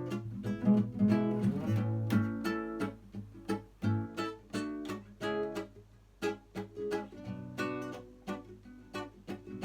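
Acoustic guitar playing alone, a run of plucked notes and chords, with no singing yet.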